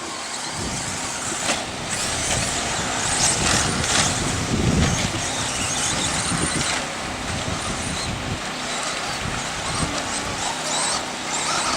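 Radio-controlled 2wd racing trucks running laps on the track: a steady hiss of motors and tyres with brief high whines as trucks pass, loudest a few seconds in.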